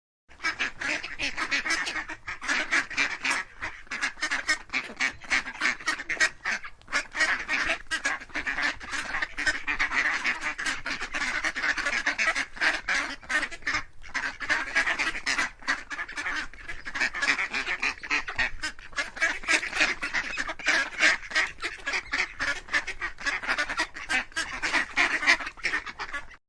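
A flock of birds calling all at once: many short, overlapping calls in a dense, continuous chorus.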